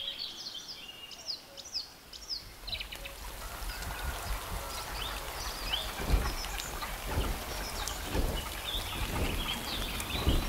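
Birds chirping in a short run of quick calls over a steady outdoor hiss. From about five seconds in, a series of irregular low thuds joins them.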